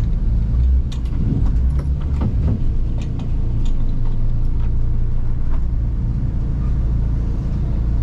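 Boat motor running steadily at low speed, a low engine hum, as the boat pushes slowly through water lilies and weeds.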